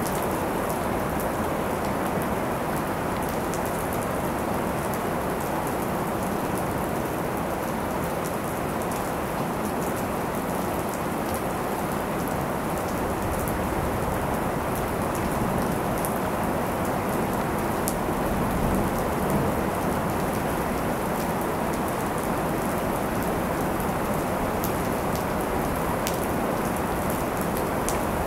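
Heavy, steady rain falling, with many sharp drop impacts clicking close by.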